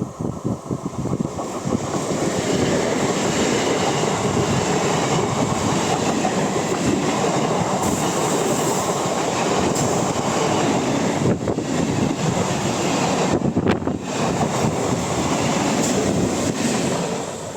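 Express train passing close by at speed: a steady rumble and clatter of wheels on the rails that builds over the first two seconds and fades near the end.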